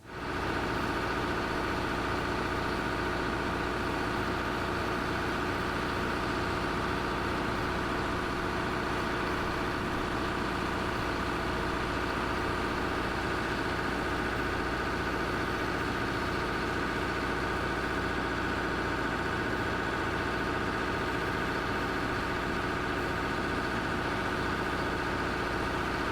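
Heavy machine engine running steadily at an unchanging speed, starting abruptly.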